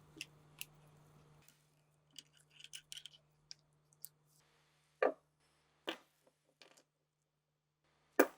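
Hand-work on the MG-34 machine gun's parts: scattered light clicks and taps, with three sharper knocks about five, six and eight seconds in.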